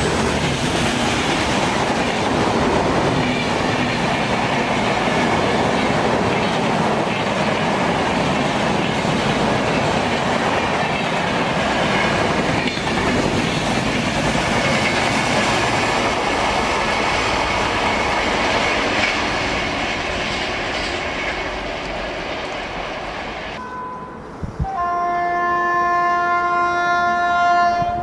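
Express train passing at speed: rushing wheel-on-rail noise with the clickety-clack of coaches over the rail joints, fading as the train draws away. After a cut near the end, a locomotive horn sounds one steady multi-tone blast of about three seconds.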